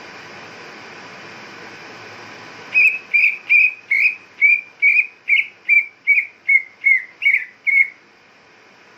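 Green leafbird (cucak ijo) giving a rapid series of about a dozen short, loud whistled notes, roughly two and a half a second, starting about three seconds in. This is the agitated, excited call used to goad a caged leafbird into singing. A steady hiss comes before the notes.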